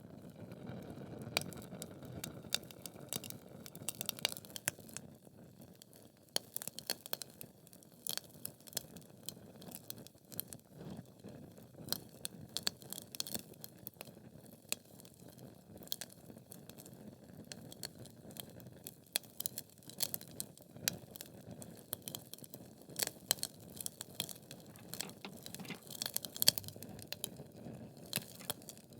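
Wood fire burning in a fireplace: logs crackling and popping in irregular clusters of sharp snaps over a low, steady flame rumble.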